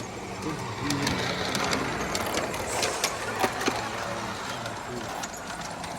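Model train running on a garden railroad: a steady small-motor hum with scattered clicks of the wheels over the track.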